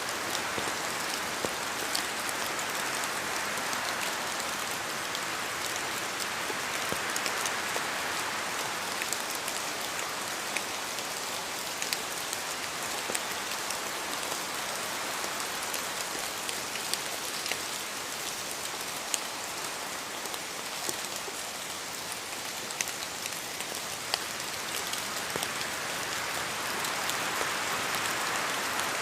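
Steady rain falling in a forest, a dense hiss with many distinct drop ticks, swelling a little twice.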